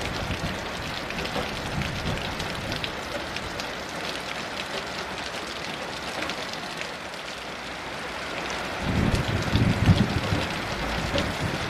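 Steady heavy rain falling, with fine drop ticks, and a low rumble of distant thunder swelling up about nine seconds in.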